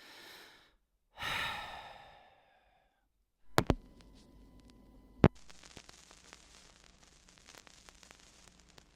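A long, weary sigh: a short breath, then a drawn-out exhale. It is followed by two sharp clicks about a second and a half apart, then a faint hiss.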